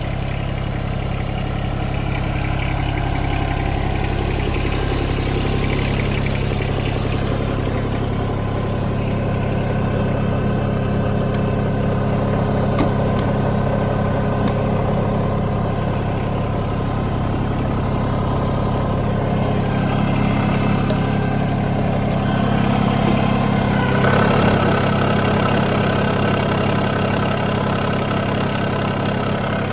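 John Deere 2305 compact tractor's three-cylinder diesel running steadily at idle, getting a little louder about two-thirds of the way through. It runs evenly, with no knocks or ticks.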